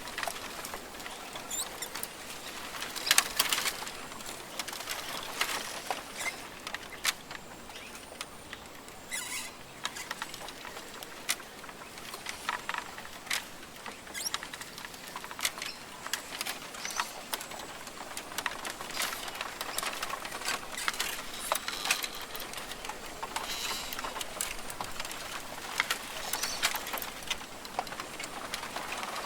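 Rainforest ambience: a steady hiss with many scattered sharp clicks, ticks and rustles, and a few brief faint bird calls here and there.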